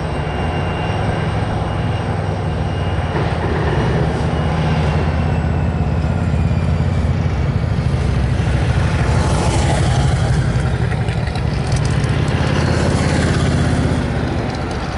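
Diesel freight locomotive engine running loudly close by, a steady heavy rumble with a high whine that slowly drops in pitch.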